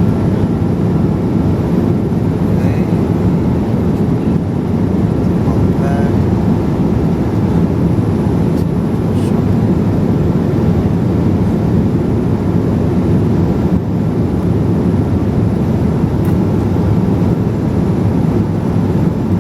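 Steady cabin noise inside a Boeing 787-8 Dreamliner in flight: an even, deep rush of airflow and engines that holds unchanged throughout.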